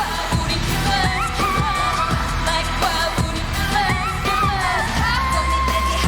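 K-pop girl group singing live over a pop backing track with a steady beat and heavy bass.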